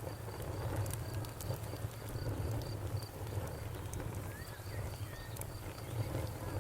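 Campfire burning with a low steady rumble and scattered sharp crackles and pops. A faint insect chirp repeats evenly, about four times a second, behind it.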